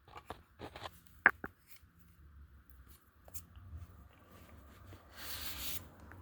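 Small clicks and taps from objects being handled on a work surface, with one sharper tap about a second in, then a short hissing rub near the end.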